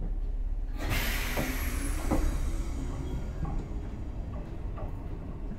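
Izuhakone Railway 7000-series electric train heard from on board while running: a steady low rumble, a sudden hiss about a second in that fades over the next couple of seconds, then the wheels knocking over rail joints every second or so.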